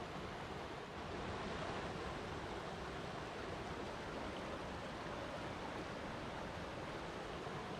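Flowing water rushing steadily, an even wash of noise without distinct splashes, a little louder from about a second in.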